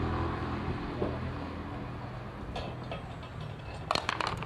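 Small outboard motor engine running, dying away over the first second or so, followed near the end by a quick series of sharp clicks and knocks.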